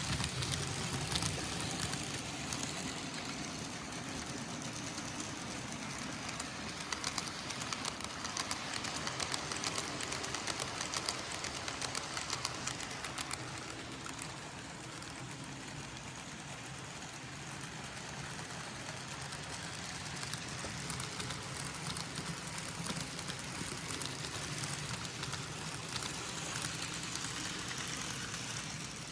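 N gauge model trains running on the layout: a steady small-motor whir with rapid light clicking of wheels over rail joints and points, busier in stretches.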